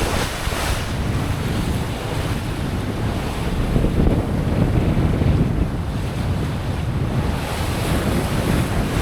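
Wind gusting on the microphone over the rush of water past a yacht under sail.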